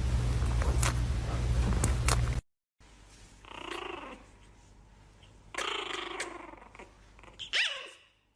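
A loud, noisy stretch with a few sharp clicks cuts off suddenly. Then a pet animal gives three separate short calls, the last one rising in pitch.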